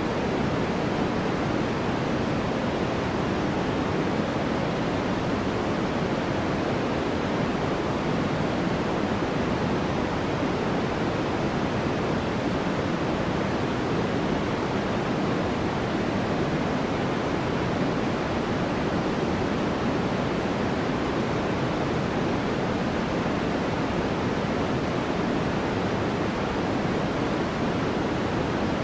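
Sleep 'white noise': a steady, unbroken rush of noise with no changes. Its weight sits in the low-mid range and thins toward the highs, closer to pink noise than flat white noise.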